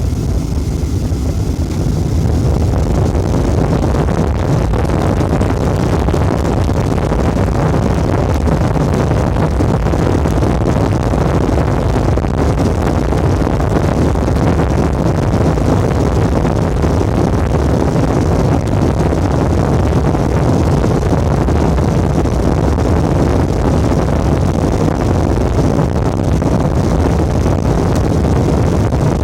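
Jet airliner's engines at takeoff thrust with the rush of the takeoff roll, a loud steady roar that builds over the first couple of seconds and then holds.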